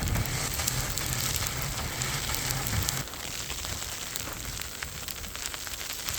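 Blowing snow in a storm: a steady crackling hiss, with a low wind rumble that drops away about three seconds in.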